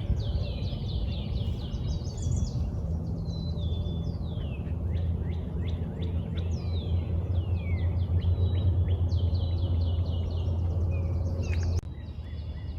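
Several songbirds singing and calling together, with many quick descending whistles and trills, over a steady low rumble that cuts off abruptly near the end.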